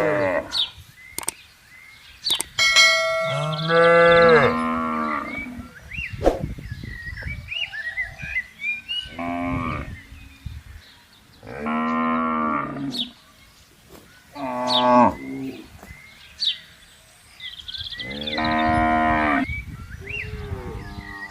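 Cattle in a herd mooing, about six long calls one after another a few seconds apart, some pitched higher than others.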